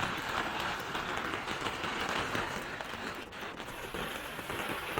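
Steady rain falling, an even hiss of many drops pattering on surfaces.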